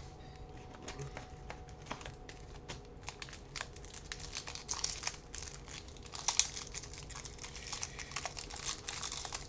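Card-pack wrapper crinkling as it is handled and opened, a run of small crackles that grows busier after about four seconds.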